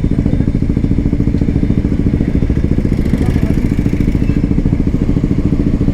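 Hero XPulse 200 4V's single-cylinder engine running steadily through an aftermarket SC Project exhaust, a loud, even, rapid pulsing of exhaust beats with no revving.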